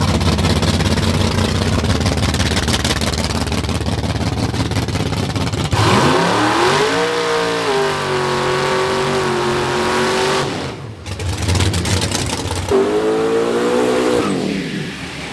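Vehicle engine revved hard and held at high revs. For the first six seconds it is buried in a loud rushing noise. Then its pitch climbs and holds steady, cuts out briefly around ten and a half seconds, and climbs and falls away once more near the end.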